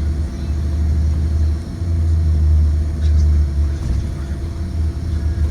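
2023 Blue Bird Vision school bus with a Ford 7.3L V8 engine, heard from inside the cabin while riding: a steady, deep engine and road rumble.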